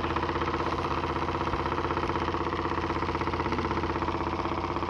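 Makeshift fan running: a steady motor hum with a rapid, even fluttering beat.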